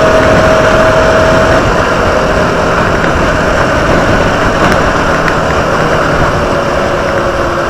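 Motorcycle engine running steadily while the bike is ridden, with road and wind noise.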